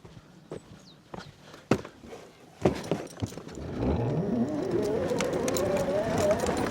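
A few scattered knocks, then an electric quad's motor whine rising steadily in pitch about four seconds in as it speeds up, then holding.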